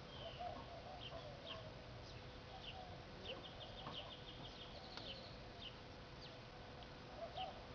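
Faint bird calls: short high chirps repeated every half second or so, with a couple of quick trills, and some lower clucking calls like a hen's. A faint steady hum underneath.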